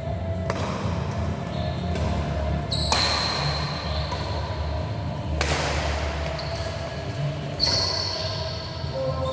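Four sharp hits, a couple of seconds apart, each ringing out in a large echoing sports hall, with brief high squeaks after some of them, over a steady low rumble.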